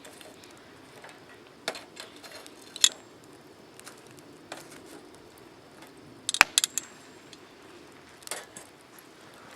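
Wood campfire crackling over a low steady rush of flame, with sharp pops and snaps: a couple about two and three seconds in, a loud quick run of snaps a little after six seconds, and another near the end.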